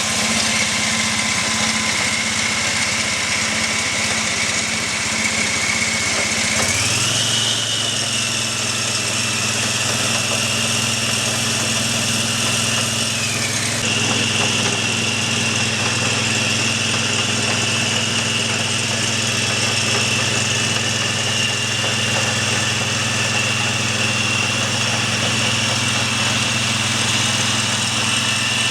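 Two-wheel walking tractor (power tiller) engine running steadily. Its engine speed steps up about a quarter of the way in, dips for a moment near the middle, then holds the higher speed.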